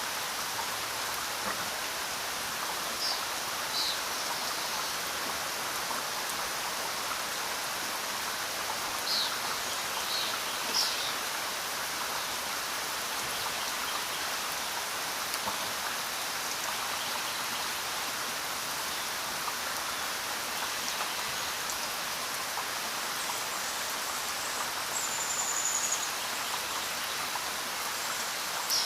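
Steady rain falling, an even hiss with no pauses. A few short high chirps come through about three seconds in and again around ten seconds, and a brief high whistle sounds near the end.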